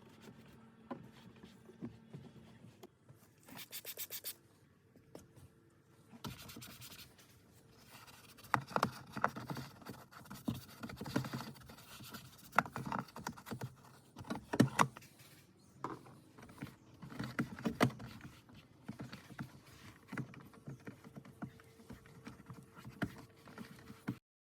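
Hand cleaning of a truck's interior trim: irregular scratchy brushing and rubbing with small knocks and clicks, and two short hissing bursts near the start.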